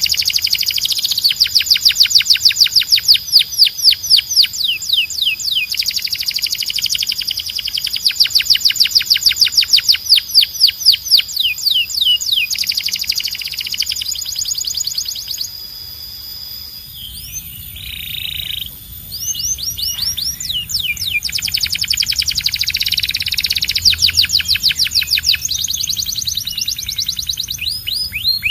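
Domestic canary singing long, fast trills of rapidly repeated sweeping notes, one rolling phrase after another, with a short, quieter lull about two-thirds of the way through.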